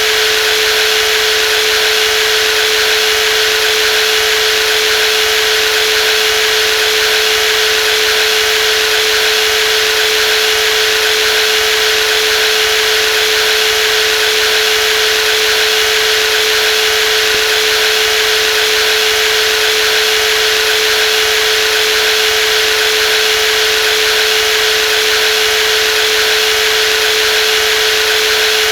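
Brushless jigsaw running steadily at constant speed, a steady high-pitched whine over a dense buzzing hiss.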